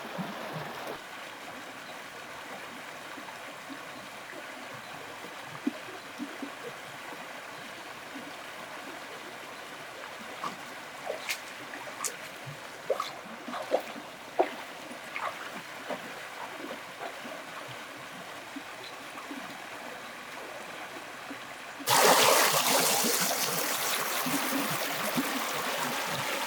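Water trickling and splashing, with scattered small knocks. A much louder rushing noise starts suddenly near the end.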